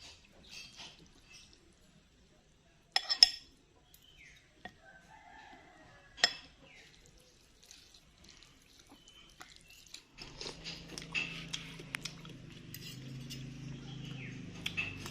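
A spoon clinks against a bowl a couple of times while a rooster crows faintly in the background. About two-thirds of the way through, a steady hiss with a low hum sets in.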